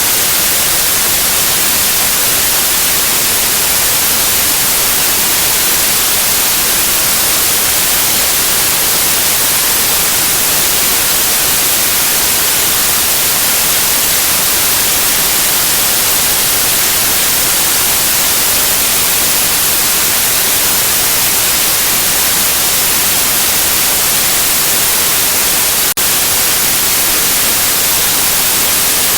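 Steady white noise, an even, bright hiss with no tones or rhythm, of the kind played to soothe a colicky baby to sleep. It has one split-second dropout near the end.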